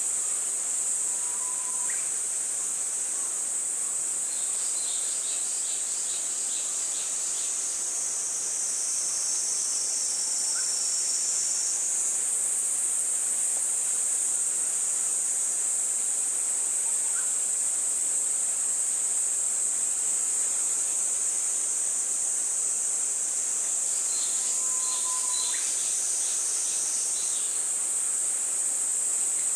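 Steady, high-pitched drone of insects trilling. Twice a bird calls with a brief whistle followed by a run of rapid chirps.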